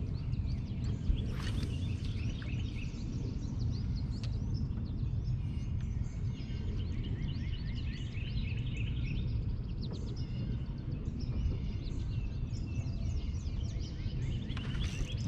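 Small birds chirping in quick, repeated calls over a steady low outdoor rumble, with a brief click about a second in.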